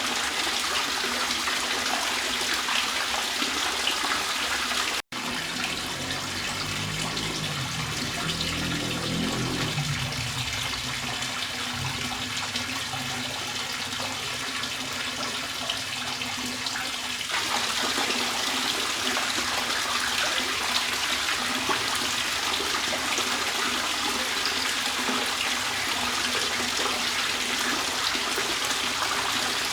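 Steady trickling, splashing water. It drops out for an instant about five seconds in, and its character shifts slightly a little past the middle.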